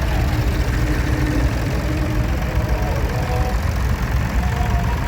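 Vintage tractor engines idling: a steady low rumble.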